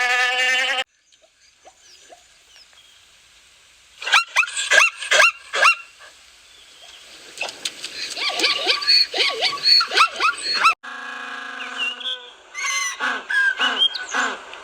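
A run of different animal calls cut one after another: a held call at the start, clusters of short calls from about 4 seconds, a steady held sound about 11 seconds in, then more calls.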